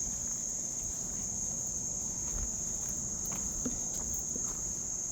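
Steady high-pitched chorus of insects trilling without a break, with a few faint ticks and taps in the second half.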